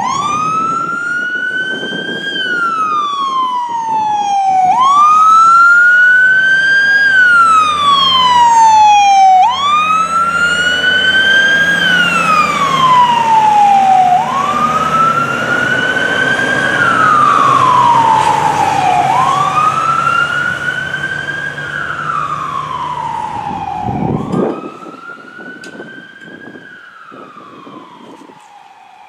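Fire truck siren wailing in a slow rise and fall, about one cycle every five seconds, each rising quickly then sliding down slowly. It is loudest in the middle, then after a last quick sweep it grows fainter.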